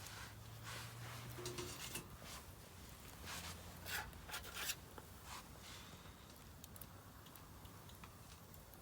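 Split firewood burning in a Solo Stove Campfire fire pit, crackling with scattered faint pops and snaps, a few louder ones about four to five seconds in.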